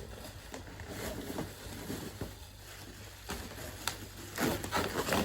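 Packaging being handled and unwrapped: rustling and scraping, with a sharp click near four seconds in and a quick run of loud scratchy strokes near the end.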